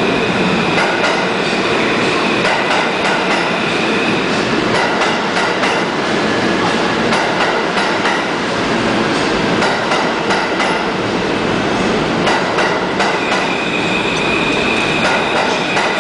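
New York City subway R40 slant cars running through a station: a steady rumble of wheels on rail with a stream of clicks from the rail joints, and a thin high wheel squeal near the start and again near the end.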